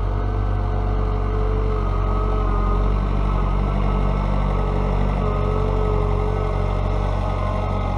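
A tractor engine running steadily at a constant speed, with a steady higher whine over it.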